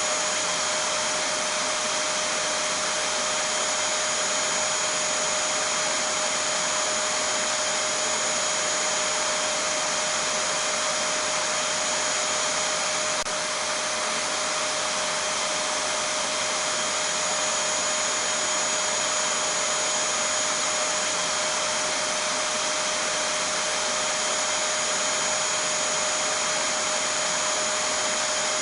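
Vacuum cleaner running continuously, a steady rushing hiss with an unchanging motor whine on top, played as white noise to lull a baby to sleep.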